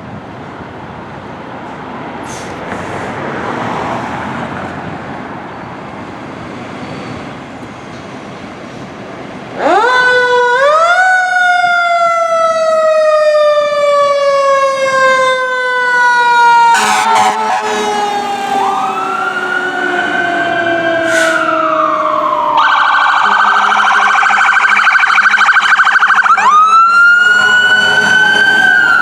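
Road traffic noise, then about ten seconds in a fire engine's mechanical Q siren winds up loudly and slowly coasts down in pitch. Electronic siren wails rise and fall over it, and the Q winds up again near the end.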